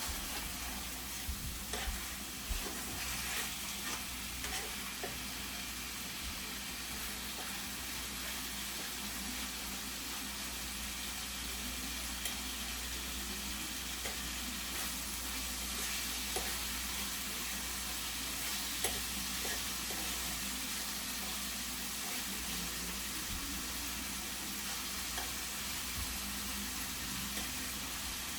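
Chicken sizzling steadily as it fries in a pan, being pre-cooked before greens go on top, with a few light clicks now and then.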